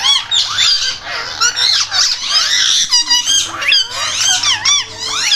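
A parrot squeaking and chattering in a rapid, unbroken string of high chirps and quick up-and-down whistling glides, with no clear words.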